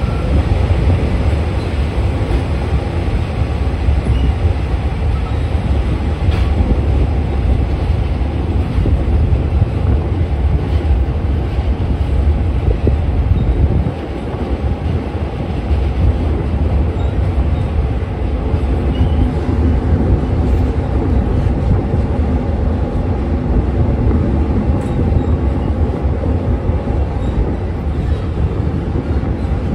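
Diesel-hauled passenger train running steadily along elevated track, heard from an open carriage window: a continuous deep rumble of the train rolling over the rails.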